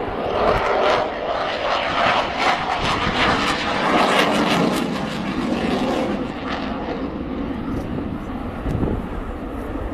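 Eurofighter Typhoon's twin EJ200 turbofan jets running in flight, a loud rushing jet noise that is strongest over the first half and eases off somewhat over the last few seconds.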